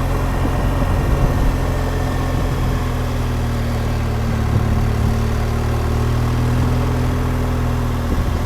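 BMW R1200GSA's boxer-twin engine running at a steady pace while the motorcycle is ridden along a twisty road.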